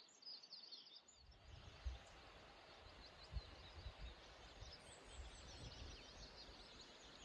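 Faint birdsong: small birds chirping over quiet outdoor background noise, with a few low bumps.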